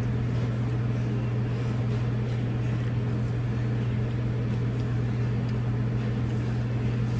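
A steady low hum with a few faint ticks now and then.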